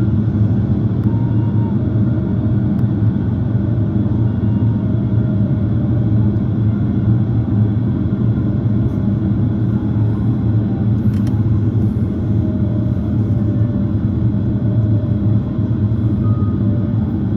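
Steady in-cabin drone of an Airbus A330-300 airliner in flight: engine and airflow noise, deep and unchanging, with a faint click about eleven seconds in.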